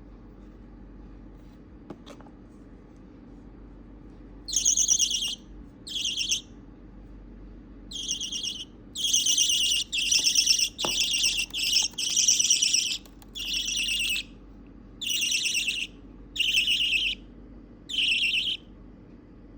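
Four-week-old budgerigar chick calling: a series of about a dozen buzzy, high-pitched calls, each under a second or so long, starting about four seconds in.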